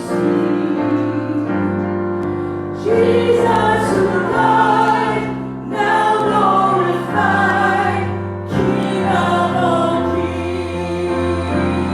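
Worship song: several voices singing together over sustained chords, in phrases that change about every three seconds.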